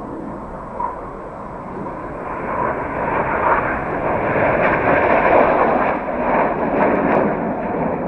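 Red Arrows BAE Hawk T1 jets making a low pass: the jet noise swells over a few seconds, is loudest about midway and eases off near the end.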